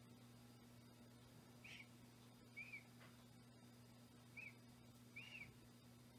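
Near silence with a low steady hum, broken by four faint, short, high chirps of a bird scattered through.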